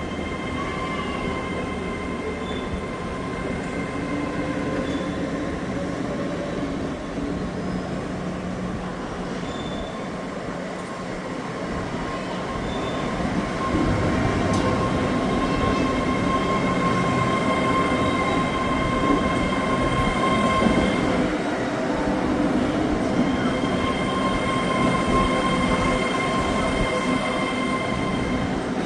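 Hitachi Class 800 (IET) bi-mode train drawing into a station as it arrives, with steady high-pitched squealing tones over the rumble of the train. The sound grows louder about halfway through.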